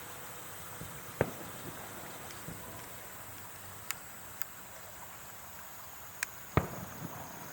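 Fireworks going off: two loud booms, one about a second in and one near the end, with a few faint sharp cracks between them over a steady background hiss.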